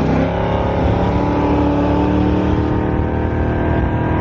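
Car engine running at steady revs while driving. Its pitch climbs a little in the first half second and then holds steady.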